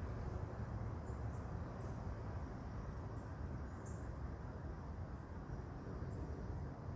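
Marmosets giving short, very high-pitched chirps, about five spread over several seconds, over a low steady rumble.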